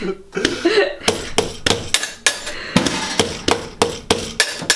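A fast, even run of sharp knocks, about four a second, starting about a second in.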